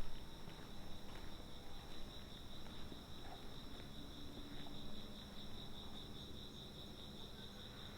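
Insects chirping in a steady, high, rapidly pulsing trill. Faint footsteps on pavement are heard in the first few seconds.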